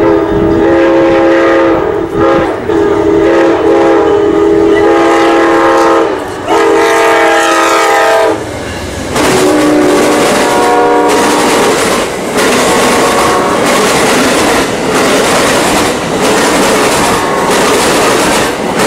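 Amtrak passenger train passing at speed, its locomotive horn sounding in long blasts that change pitch as the locomotive goes by about eight seconds in. The horn gives way to the rumble of the passenger cars, their wheels clacking rhythmically over the rail joints.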